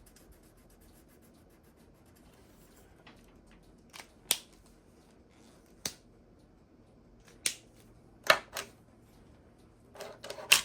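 Quiet room tone, then a handful of sharp clicks and taps spread over the second half, from craft supplies being handled and set down on a work table.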